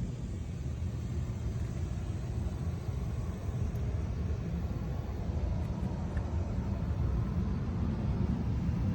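Boeing 737-700's CFM56 jet engines at takeoff thrust: a low rumble that builds gradually, with a faint steady whine above it from about halfway through.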